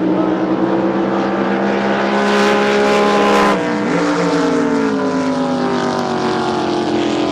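Racing drag boat engine running hard, its pitch sliding slowly down, then dropping sharply about three and a half seconds in before climbing again and holding.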